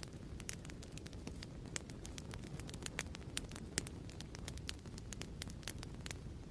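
Wood fire in a fireplace crackling: a steady low rumble of burning with many sharp, irregular pops and snaps, several each second.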